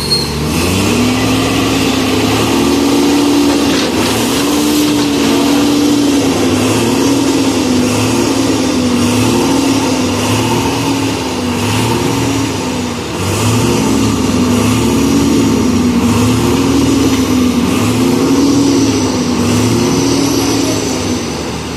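Heavy diesel engine speeding up just after the start, then working under a changing load: its note rises and dips about once a second, without a break.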